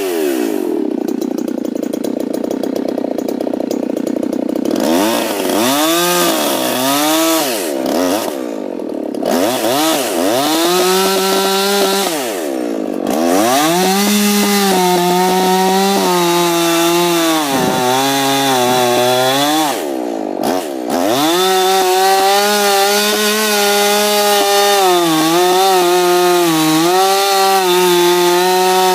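Ported Husqvarna 357 XP chainsaw cutting into a peeled white pine log. The engine pitch rises and falls repeatedly as the bar goes in, then holds mostly steady under load in the second half, dropping briefly twice.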